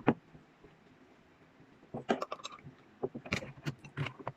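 Sharp clicks and knocks from a vlogging tripod and its ring light being handled and fitted together. There is one knock right at the start, then a cluster about two seconds in and several more from about three seconds on.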